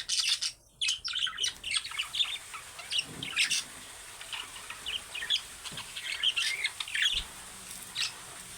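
Budgerigars chattering: a dense run of quick, high chirps at first, then scattered chirps and squawks.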